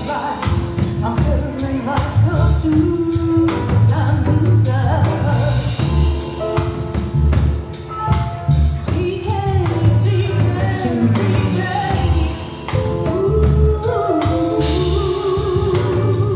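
Live band playing a song, with a lead vocal line over bass and drums.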